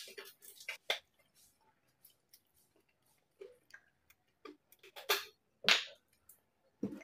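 Close-miked chewing of crispy pata, deep-fried pork leg. Many small wet mouth clicks, with a few louder short crunchy bursts about a second in and again around five to six seconds in.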